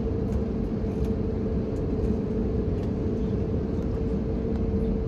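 Airbus A321neo cabin noise in flight: a steady rush of airflow with a constant hum from the CFM LEAP-1A engines.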